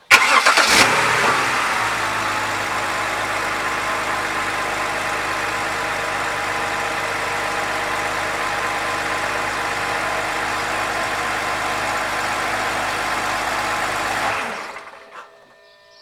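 BMW car engine starting with a brief flare, then settling to a steady idle for about thirteen seconds before it is switched off and runs down near the end.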